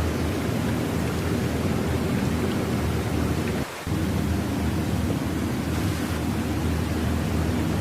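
Steady low rumbling noise with no distinct events, which drops out for a moment about three and a half seconds in.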